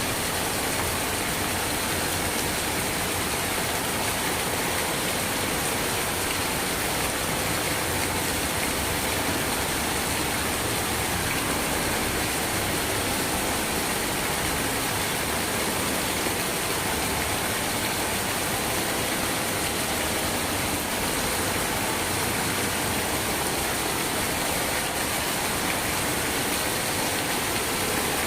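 Steady, continuous rain: an even hiss of rainfall with no breaks or single drops standing out.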